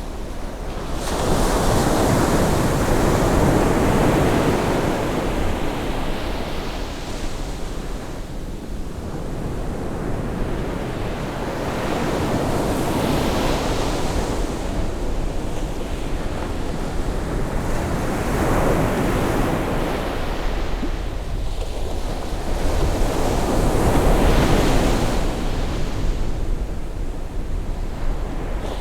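Ocean waves breaking and washing up the shore on a rising tide, the surf swelling and falling away every few seconds, with wind rumbling on the microphone.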